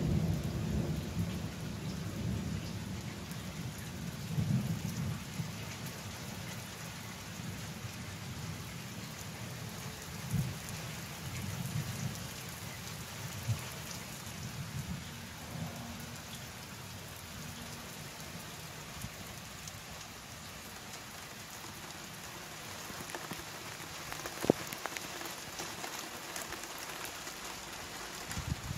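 Steady rain during a thunderstorm, with low thunder rumbling at the start and dying away over the first dozen seconds. A few sharp taps stand out, the loudest about 24 seconds in.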